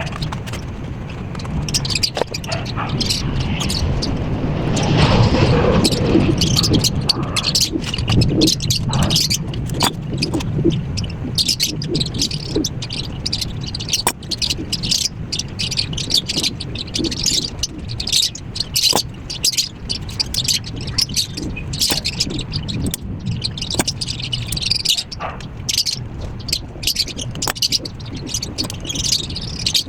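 Irregular scraping and clicking of hand work on material, over a steady low hum, busiest about a quarter of the way in.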